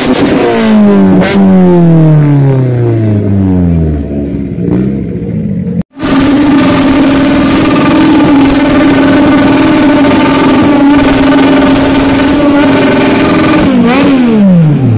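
Car doing a burnout: the engine's revs fall away over the first few seconds, then it is held steady at high revs for about eight seconds with the tyres spinning, and the revs drop again near the end.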